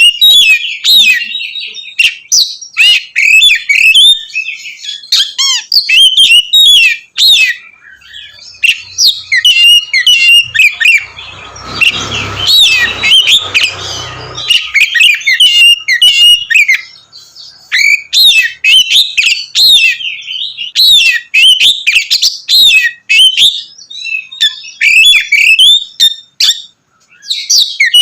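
Oriental magpie-robin (kacer) singing loudly and almost without pause, a fast run of varied sharp whistles, trills and sweeping notes, given in the full 'ngeplong' song. About halfway through, a few seconds of rushing noise sound under the song.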